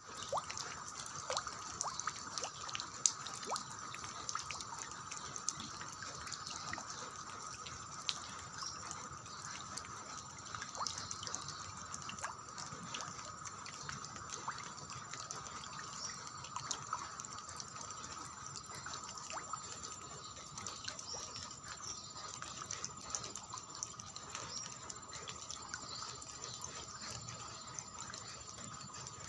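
Rain falling steadily, with many irregular drips and splashes of water.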